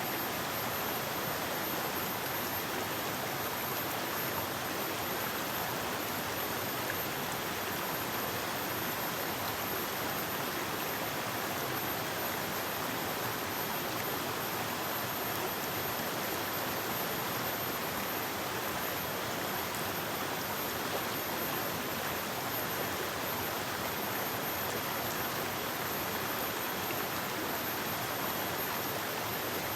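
Forest river flowing over rocks: a steady, even rush of running water with no changes.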